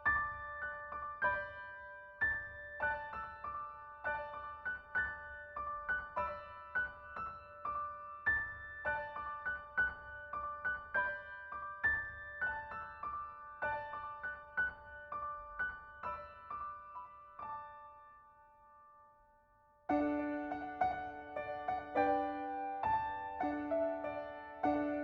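Soft background piano music, a gentle melody of single struck notes. It fades away almost to silence near the end, then a fuller passage with lower notes comes in.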